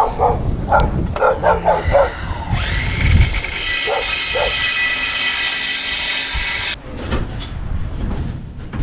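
A power tool motor runs at full speed for about four seconds with a high, steady whine, then cuts off suddenly. Before it come several short, pitched sounds.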